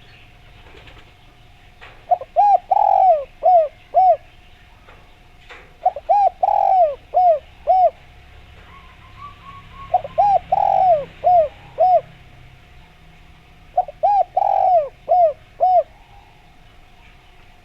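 Spotted dove (derkuku/tekukur) cooing: four phrases about four seconds apart, each a run of short coos with a longer, fuller note in the middle. A faint steady tone runs beneath.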